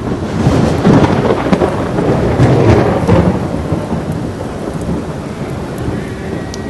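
Thunder rolling over heavy rain: the rumble comes in suddenly, is loudest about one to three seconds in, then slowly dies back under the steady rain.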